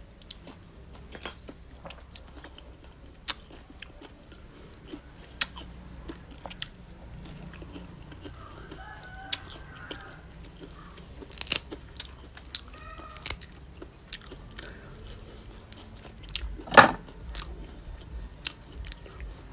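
Close-up eating sounds: chewing and crunching of raw oyster and fresh green shoots, with scattered sharp clicks and one louder knock near the end.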